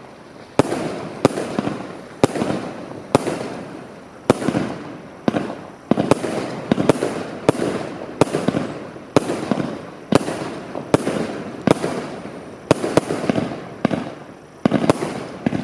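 A rapid run of firework bangs, more than one a second, each followed by a short crackling tail.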